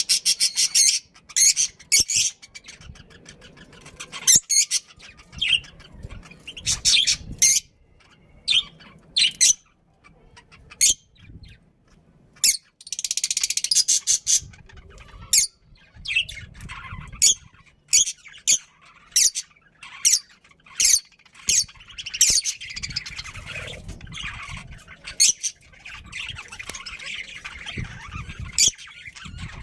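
Pet budgies chirping and squawking: many short, sharp chirps in quick succession, with a longer call about thirteen seconds in and busier chatter near the end.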